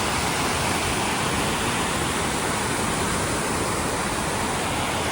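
Waterfall's falling water rushing, a steady even noise with no change throughout.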